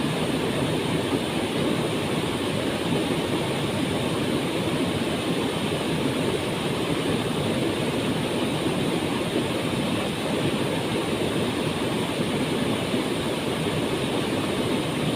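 Waterfall pouring: a continuous, steady rush of falling water, heaviest in the low and middle range.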